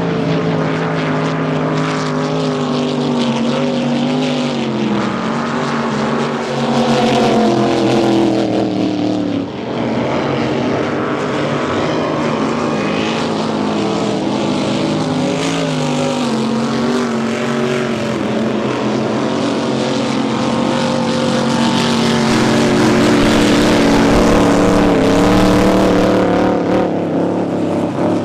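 Racing drag boat engines running loud, their pitch rising and falling as they rev. The sound swells louder about a quarter of the way in and again near the end.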